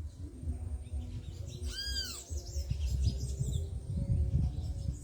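Wild birds calling at a feeder: one clear note that rises and falls in pitch about two seconds in, with short high chirps around it, over a low rumble.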